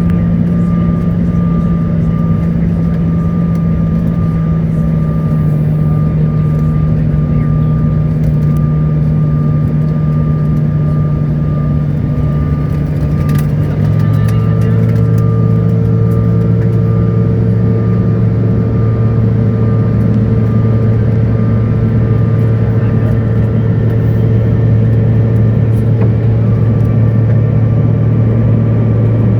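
Steady engine and air noise inside the cabin of a CRJ900 regional jet with rear-mounted GE CF34 turbofans. About halfway through, the engine note shifts to a deeper, stronger hum with new higher tones: the power change of a go-around from an aborted landing.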